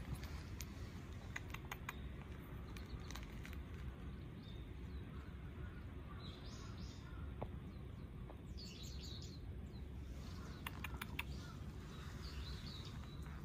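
Small birds chirping in short bursts, twice in the middle and again near the end, over a steady low outdoor background noise with a few scattered light clicks.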